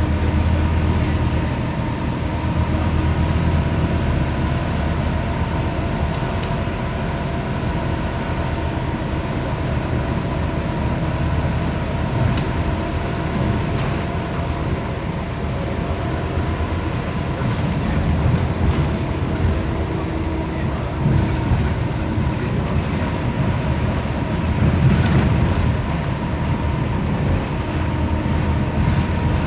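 Scania CN270UB city bus on the move, heard from inside: the diesel engine and drivetrain rumble steadily under a thin, steady whine, with a few light clicks and rattles.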